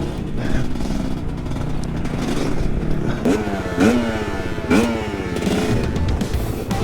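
GPX Moto two-stroke dirt bike engine running on the throttle while being ridden. From about three seconds in it revs up in about four quick rises in pitch, each dropping back before the next.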